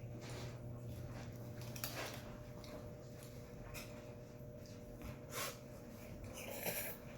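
People slurping instant ramen noodles: a few short slurps, about two seconds in and five seconds in, then a longer one near the end, over a steady low hum.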